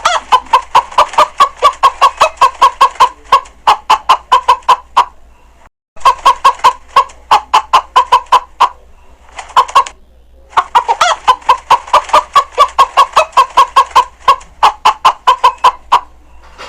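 Chickens clucking in fast, regular runs of about six clucks a second, with short breaks about six and ten seconds in.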